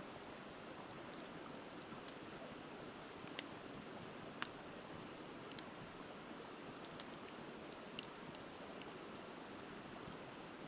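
Wood bonfire crackling, with scattered sharp pops (the loudest about three and a half, four and a half and eight seconds in), over the steady rush of a flowing river.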